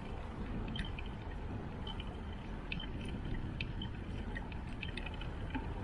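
Steady low rumbling noise of a bicycle ride, with scattered light clicks and rattles.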